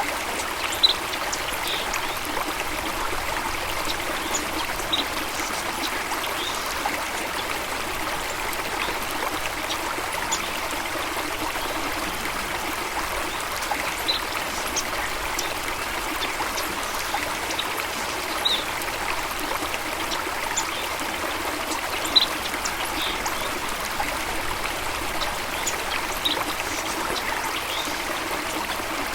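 Running water splashing steadily, with short high-pitched blips scattered every second or two and a couple of sharper splashes, about a second in and about 22 seconds in.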